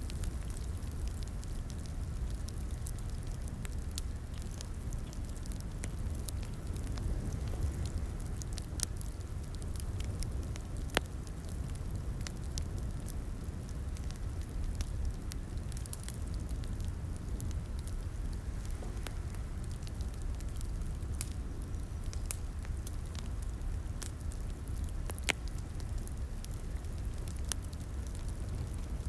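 Wood fire burning in a fireplace, with a steady low rumble and irregular sharp pops and crackles, one louder snap about eleven seconds in.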